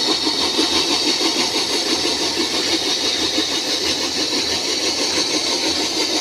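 Wheat flour mill machine running steadily, a loud mechanical drone with a fast, even pulsing beat.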